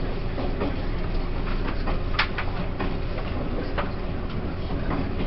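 Running sound of a Taiwan Railways E1000 push-pull Tze-Chiang express: a steady rumble of the wheels on the rails with scattered, irregular clicks and knocks.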